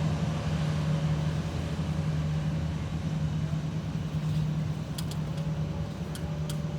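Steady low engine rumble, slowly fading, with a few sharp clicks about five seconds in.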